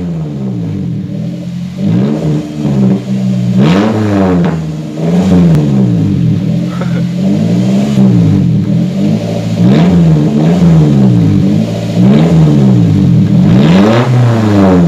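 Daihatsu Gran Max pickup's engine revved over and over through its exhaust, the pitch climbing and dropping back roughly every one and a half seconds.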